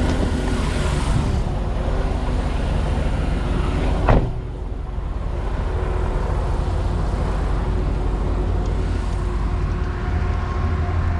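Heavy truck's engine running, a steady low rumble, with one short sharp knock about four seconds in, after which the hiss above the rumble is duller.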